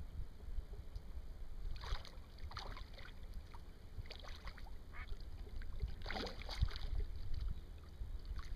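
Water splashing in several short bursts, the loudest a little past the middle, over a steady low rumble of wind. A hooked blue catfish is thrashing at the surface close to the boat.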